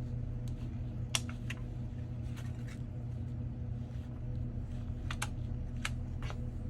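Scattered sharp clicks and taps of small repair tools working at an iPhone 14's back glass, about nine in all and irregular, over a steady low electrical hum.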